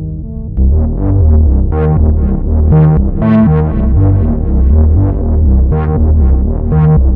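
Roland SE-02 analog monophonic synthesizer playing a sequenced pattern of quick bass notes. About half a second in, a new, louder preset patch takes over, with some notes opening much brighter than the rest.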